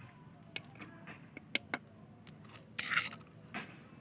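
NPK 20-20-20 fertiliser granules being sprinkled around a potted plant: scattered light ticks, and a short rustle about three seconds in.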